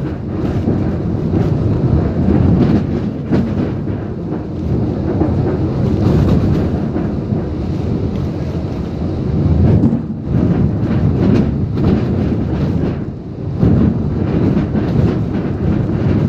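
Typhoon wind and rain, loud and gusting, with a heavy low rumble of wind on the microphone that swells and dips every second or two.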